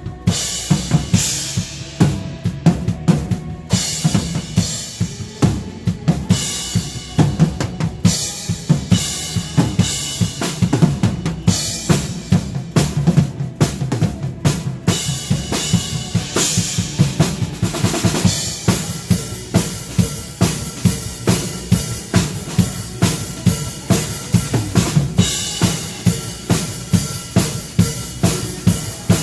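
Drum kit played in a steady beat, with bass drum and snare strikes and stretches of cymbal wash that come and go.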